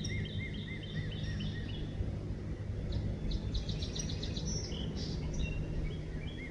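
Songbirds singing: a quick series of repeated arched chirps, then about three seconds in a fast run of high notes. Under them is a steady low hum.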